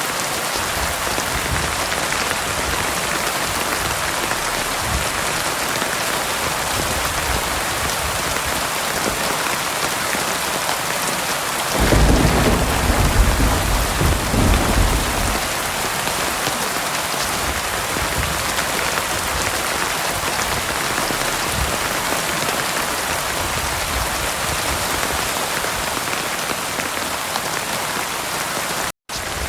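Heavy rain falling steadily, with a roll of thunder rumbling in about twelve seconds in and fading over roughly three seconds. The sound cuts out for an instant near the end.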